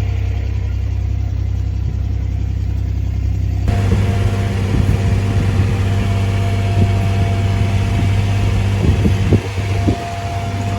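A farm truck's engine running steadily with a low hum. The sound gets fuller about four seconds in, and there are a few short knocks near the end.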